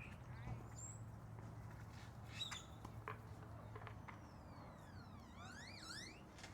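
Faint bird calls: scattered short chirps and squawks, then about five seconds in, a run of quick whistles sliding up and down in pitch.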